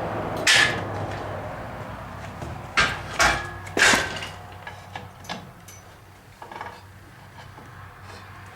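Sharp knocks and clanks from handling an engine hanging on a hoist chain and the engine stand it is bolted to: one about half a second in, three loud ones close together around three to four seconds in, then a few fainter ones.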